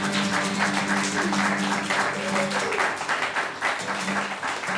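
Audience applauding while the last notes of an acoustic guitar ring out and fade.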